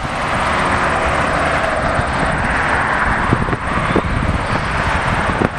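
Jet airliner engines at an airport, a steady loud whooshing engine noise.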